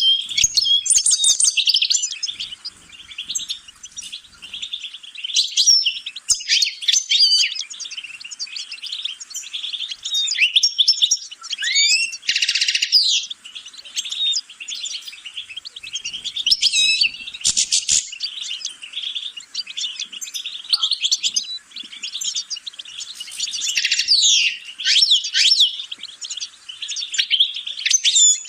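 A songbird singing a long, varied song of rapid chirps, trills and twittering phrases, broken by short pauses, with a harsh buzzy note about twelve seconds in.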